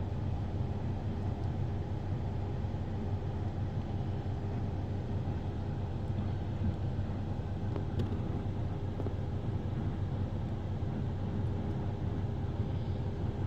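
Steady low rumble of a car heard from inside the cabin, with a constant low hum.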